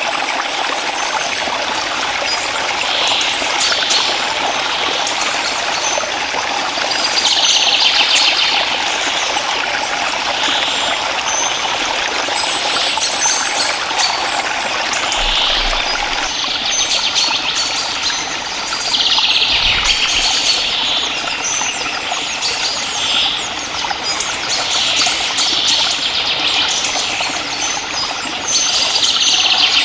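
Steady running and trickling of a forest stream, with bird chirps every few seconds over it.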